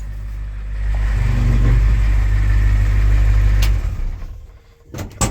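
A truck engine running with a deep low rumble, revved briefly about a second in, then falling away about four seconds in. A few sharp knocks follow near the end.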